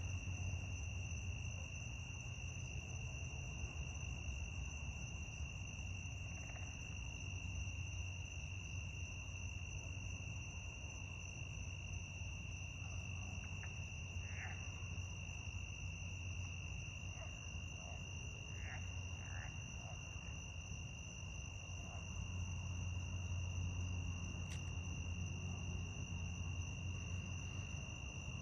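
A night chorus of crickets trilling in one unbroken high tone, over a low steady rumble. A few short, faint calls come and go in the middle.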